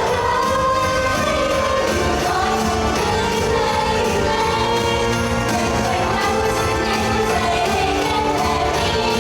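Pop song with female group vocals singing over a steady beat.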